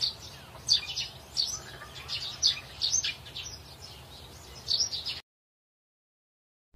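Small birds chirping: short, high, repeated chirps several times a second over a faint low background rumble, cutting off abruptly to silence about five seconds in.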